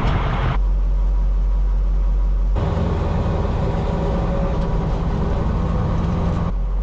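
Heavy diesel engines of harvest machinery running steadily, in three short shots cut together, each with a different engine note.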